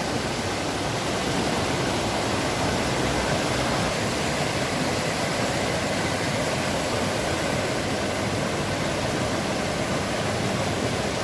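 Fast mountain water rushing steadily, an even, unbroken roar.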